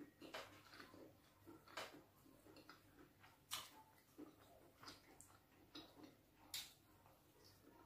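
Close-miked chewing of fufu and bitter leaf soup: soft, irregular wet mouth clicks and smacks, with a few sharper clicks about 2, 3.5 and 6.5 seconds in.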